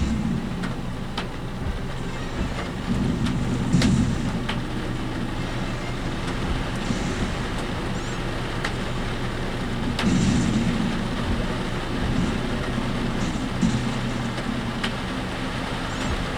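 Inside a work vehicle's cab while driving: steady engine and road noise with a low hum, and the cab rattling with scattered sharp clicks.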